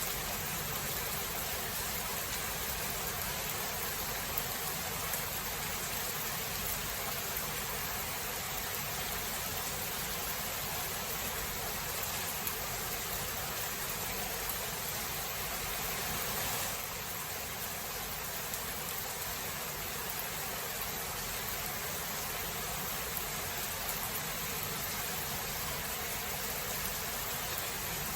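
Steady heavy rain of a thunderstorm, an even hiss with faint scattered ticks of drops; the rain eases slightly about seventeen seconds in. No thunderclap stands out.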